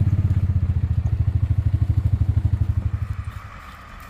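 Truck engine running with a low, evenly pulsing rumble that fades away about three seconds in.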